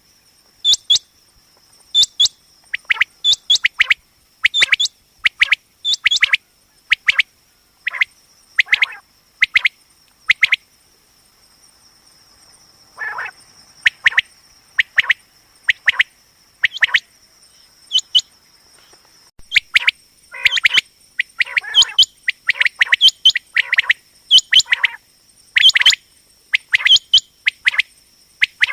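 Common quail calling over and over in quick clusters of two to four sharp notes, with a short lull in the middle, over a steady high whine.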